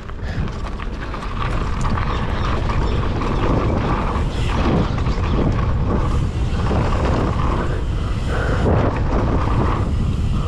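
Wind buffeting the microphone of a camera riding along on a mountain bike descent, over the rumble of knobby tyres rolling on a dirt trail. It grows a little louder after a couple of seconds as speed builds.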